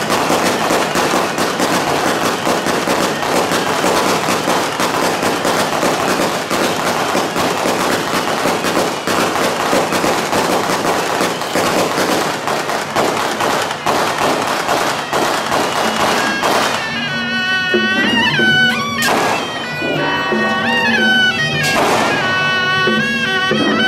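A long string of firecrackers crackling continuously, giving way about 16 seconds in to traditional procession music, with a wind instrument playing a melody that bends in pitch.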